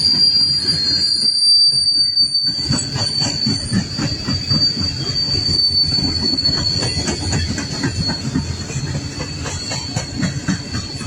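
Freight cars of a coal train rolling past with a steady, high-pitched wheel squeal over a low rumble. The wheels click over the rail joints.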